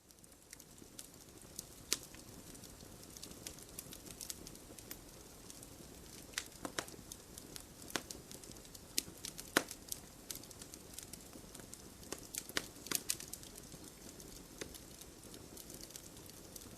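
Fireplace fire crackling: irregular sharp pops and snaps over a soft, steady hiss, fading in from silence over the first second.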